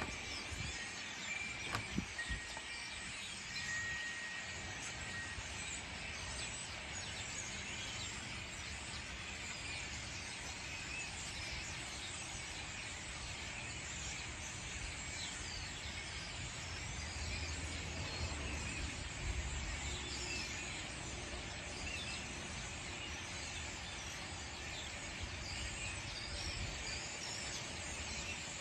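A large flock of European starlings chattering in a tree: a dense, continuous mass of overlapping chirps, clicks and whistles.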